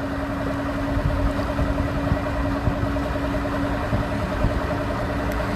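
An engine running steadily at idle, a constant hum over a low rumble.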